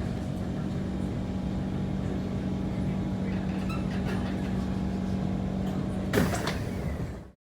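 Steady electrical hum inside an SMRT C151 train carriage. About six seconds in comes a sudden loud clunk and rattle.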